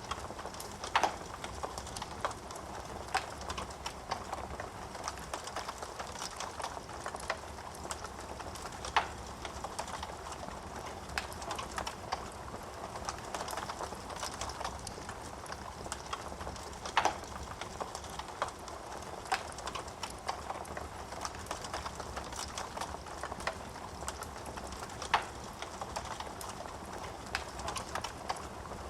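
Wood fire crackling in a fireplace: a steady soft rush of flames with frequent small crackles and a few louder, sharper pops from the burning logs.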